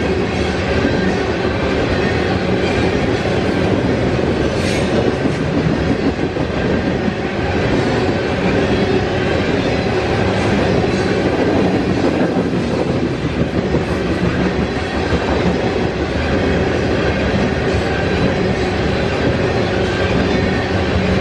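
Norfolk Southern freight train's cars rolling past, steel wheels running on the rails in a loud, steady rumble, with a brief sharp click about five seconds in.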